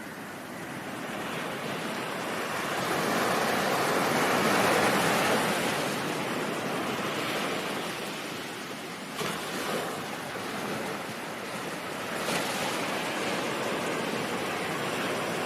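Ocean surf: the rush of a wave swells to a peak about four to five seconds in and then recedes, with two sharper breaking splashes about nine and twelve seconds in.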